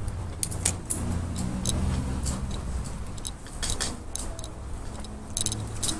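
Riding noise from a moving bicycle: a steady low rumble of wind and tyres, with frequent short metallic clicks and rattles from the bike.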